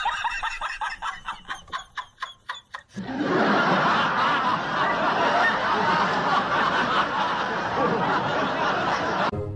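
Laughter: quick, rhythmic snickering for about the first three seconds, then a steady wash of laughter until near the end.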